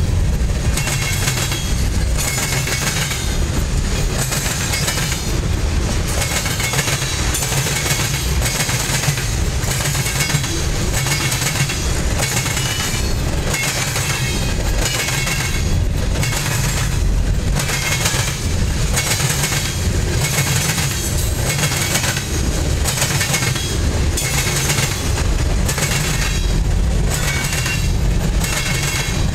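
Freight train's covered hoppers and tank cars rolling past over a railroad diamond crossing: a steady low rumble with repeated clattering bangs as each set of wheels crosses the diamond.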